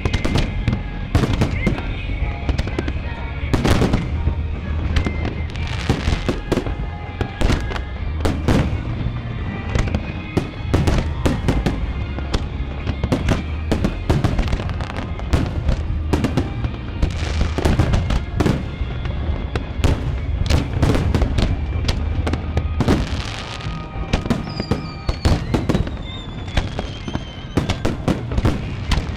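Fireworks display: a dense, unbroken run of booms and crackling bursts coming irregularly, several a second, over a low rumble, with music playing underneath.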